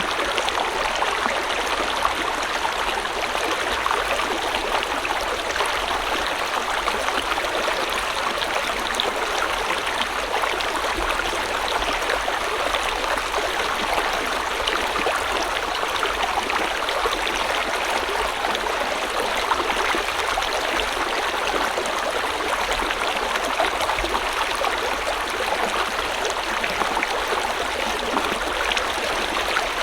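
A river or stream flowing steadily over rocks, a continuous rushing of water with fine splashing and gurgling detail.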